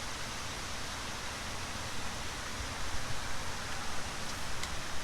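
Steady rushing noise with a low rumble, with a couple of faint clicks near the end.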